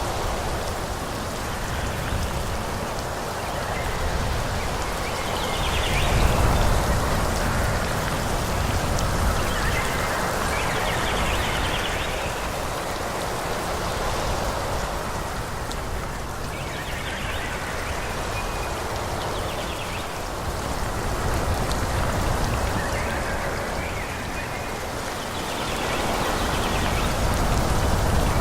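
Wind blowing through forest trees, the leaves rustling with a rain-like hiss and a low rumble, swelling and easing in gusts every few seconds, the strongest gust about six seconds in.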